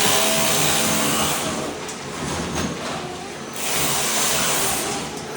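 Ride-on floor scraper working across a concrete slab, its blade scraping thin-set tile mortar off the concrete in a harsh, loud grating over the machine's running. The scraping swells louder at the start and again from about three and a half seconds in, dropping back in between.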